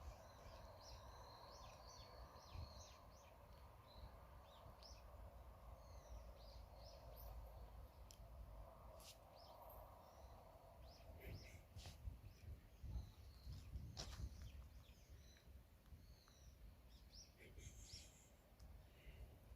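Faint chirping of small birds, many short calls scattered throughout, over a quiet background hum, with a couple of soft knocks about two-thirds of the way through.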